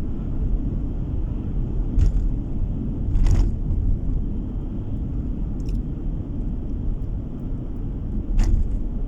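Steady low road and tyre rumble of a car driving, heard from inside the car, with a few brief knocks about two, three and eight seconds in.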